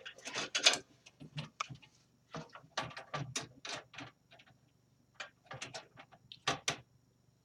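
Computer motherboard being set into a metal PC case and shifted to line up its mounting holes: a run of irregular clicks, taps and light knocks, with a short pause about halfway through.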